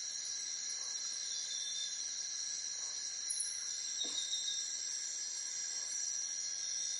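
A steady, high-pitched chorus of crickets or similar insects, with a few faint short chirps over it.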